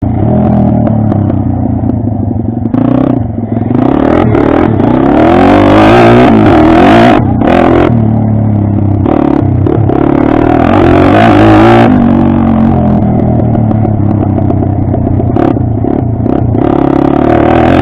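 Pit bike's small single-cylinder engine running hard around a track, its pitch rising and falling over and over as it is revved through the corners and straights.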